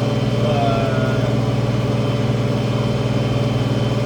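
International 1566 tractor's six-cylinder diesel engine running steadily, pulling a cultivator through the field, heard from the cab.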